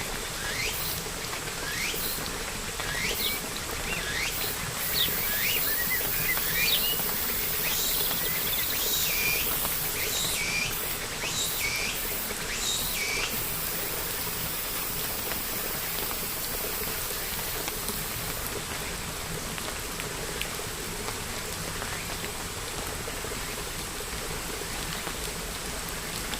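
Steady rain patter with a bird repeating short, squeaky rising chirps about once or twice a second, which stop about halfway through, leaving only the rain.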